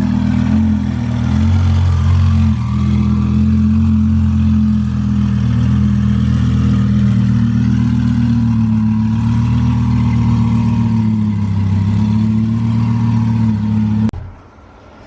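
Twin-turbo Lamborghini Huracán's V10 engine running steadily, with a slight waver in pitch, then cutting off suddenly near the end.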